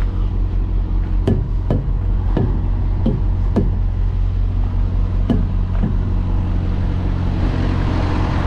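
Road-train truck tyres knocked one after another with a tyre checker, about seven sharp knocks each with a brief ring, a routine check for a flat or under-inflated tyre. A steady low engine hum runs underneath.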